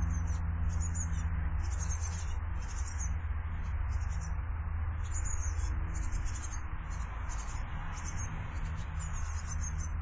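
Small birds chirping in short, high-pitched bursts again and again, over a steady low rumble.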